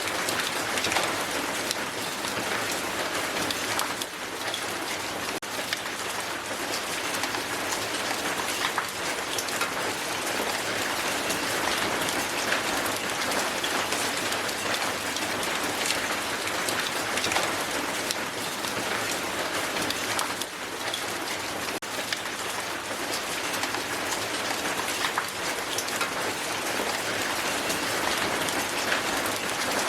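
Heavy hail falling steadily on a hard surface: a dense, even hiss of countless small ice impacts, with scattered sharper ticks.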